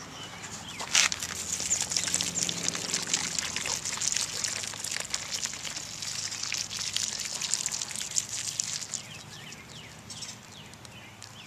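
Beer poured out of a can and splashing, starting with a sharp splash about a second in, running for about eight seconds and then dying away.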